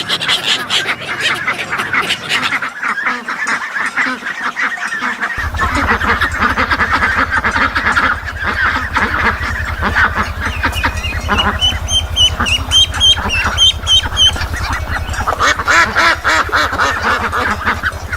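A flock of ducks quacking together in a dense, continuous chorus. A run of short high peeps sounds about eleven seconds in.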